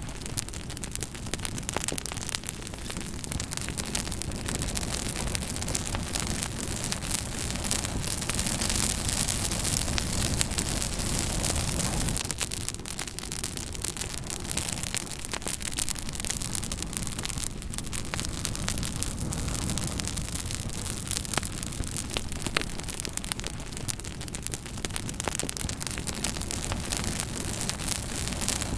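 Fire crackling: a steady hiss dotted with frequent short, sharp crackles and pops.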